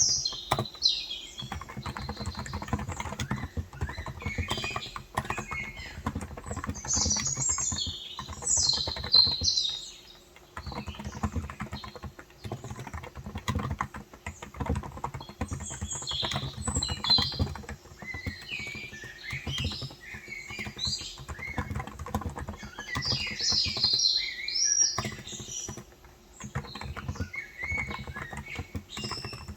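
Fast typing on a Cox Endeavour electrostatic-capacitive keyboard with 35 g switches: a dense run of soft keystrokes, pausing briefly about ten seconds in and again near the end. Small birds chirp and twitter in short bursts over the typing.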